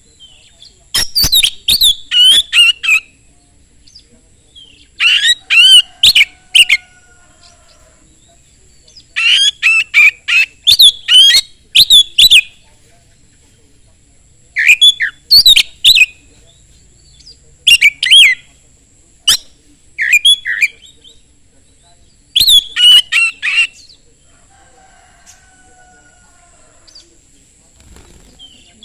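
Oriental magpie-robin singing loud, fast bursts of high whistles mixed with sharp clicking notes, in phrases every few seconds separated by short pauses.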